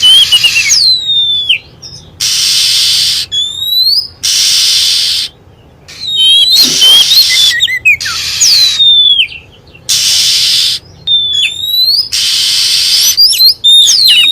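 Oriental magpie-robin (kacer) calling: loud, harsh rasping notes about a second long, roughly every two seconds, alternating with clear sweeping whistles.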